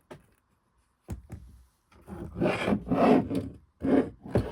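A Singer Genie sewing machine being stood upright and shifted on the work surface: a knock about a second in, then scraping and rubbing as it is moved into place.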